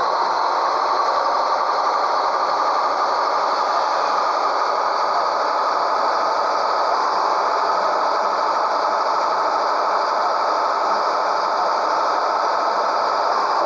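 Scania 113H truck's diesel engine running at steady revs.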